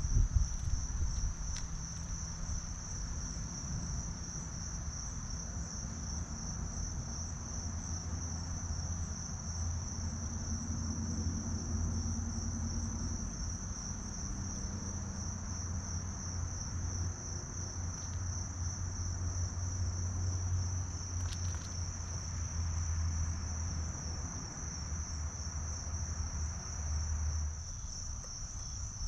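Crickets in a steady, high-pitched chorus of continuous trilling, over a low rumble.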